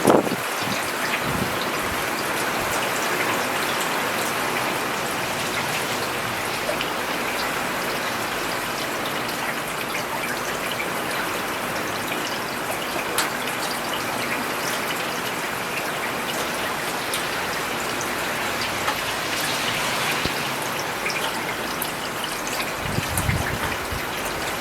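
Steady rain falling on a road, an even hiss with the crisp ticks of individual drops hitting the surface.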